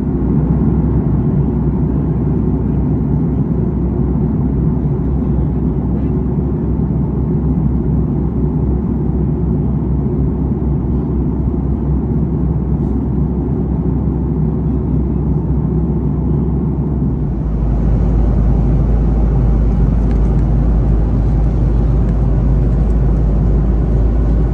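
Steady loud rumble of airliner cabin noise. About 17 seconds in it becomes louder and fuller, reaching higher in pitch.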